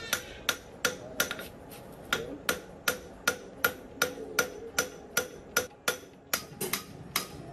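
A hammer striking metal in a steady rhythm, about two to three blows a second, each blow with a short metallic ring.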